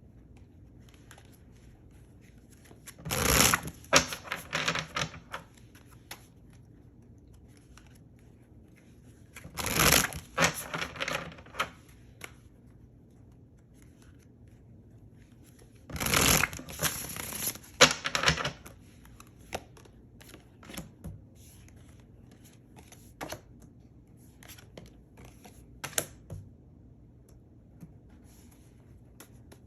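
A deck of tarot cards being shuffled in three bursts, a few seconds in, around ten seconds and around sixteen seconds, with scattered light clicks of cards being handled and laid down between them.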